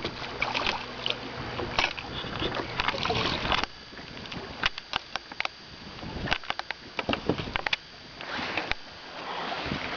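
Sounds from a small fishing boat on the water: an even rush of wind and water, then, from about the middle on, a run of sharp clicks and knocks of gear being handled in the boat.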